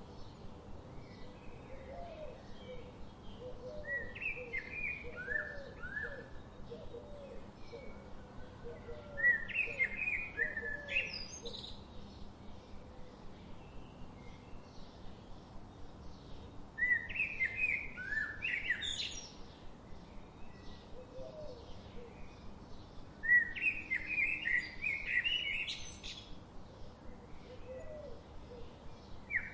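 Wild birds singing: one loud, quick song phrase of trills and rising notes comes about every six to seven seconds, four times. Fainter chirps from other birds run beneath, along with a softer run of short, lower notes.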